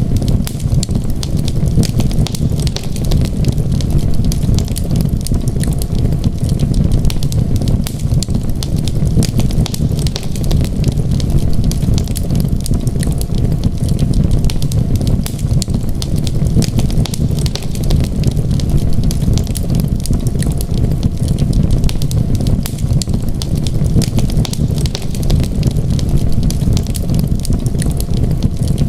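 Wood fire burning in a fireplace, crackling and popping in many quick sharp clicks over a steady low rumble.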